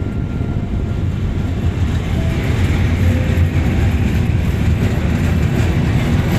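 A train running through the station at speed: a loud, steady rumble of wheels on the rails, growing slightly louder about two seconds in.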